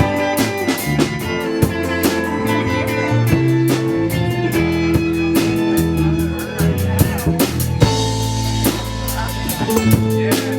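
Live band playing an instrumental passage: guitar over a drum kit keeping a steady beat.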